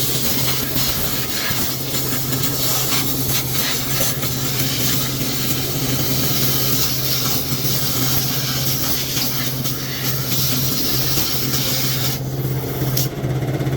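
A power tool running steadily with a rasping, grinding sound over a steady motor hum.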